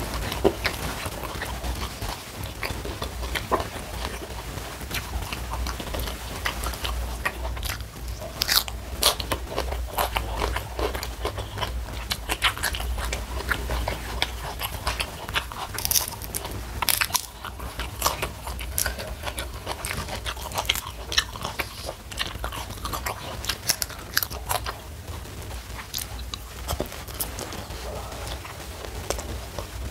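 Close-up mouth sounds of a person biting and chewing crunchy food: irregular crisp crunches and clicks. The mouthfuls come from a hand-eaten meal of fried salted snakeskin gourami, raw petai (stink beans) in sambal terasi and raw lettuce.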